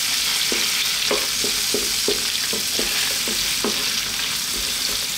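Beef, onions and garlic sizzling in oil in a nonstick frying pan while a wooden spatula stirs them, scraping the pan in a quick series of short strokes.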